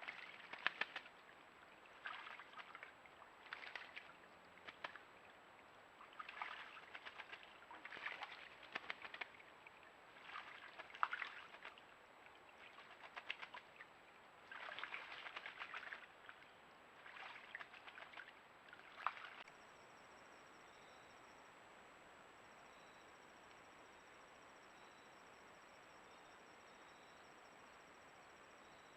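Irregular short bursts of splashing and fluttering in shallow creek water, with sharp little clicks. About nineteen seconds in, it cuts to a faint steady hiss with faint, evenly repeating insect chirps.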